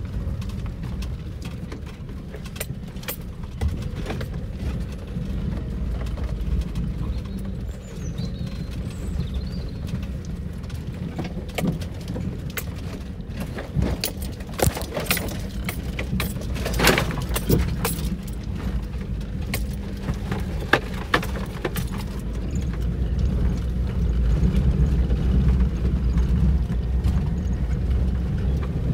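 A car driving, with a steady low engine and road rumble and many small rattles and knocks, getting somewhat louder near the end.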